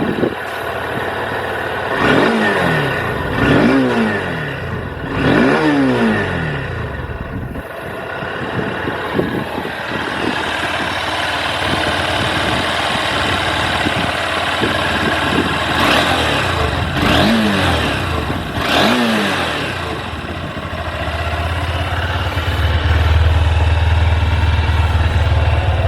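Honda CB200X motorcycle engine idling just after a start, blipped three times in quick succession early on, then three more revs about two-thirds of the way through; near the end it settles into a louder, deeper steady running note.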